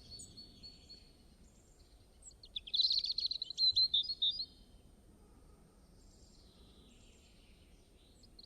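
A bird singing a quick run of high chirps for about two seconds, starting a little over two seconds in, with a few fainter calls around it.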